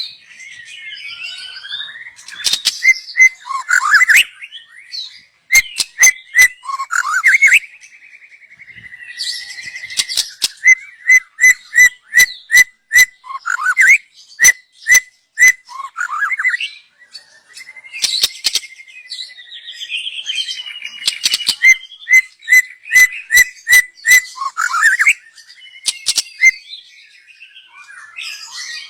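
Young white-rumped shama (murai batu) singing: loud, varied whistled phrases with gliding notes, broken by runs of short sharp repeated notes at about three a second.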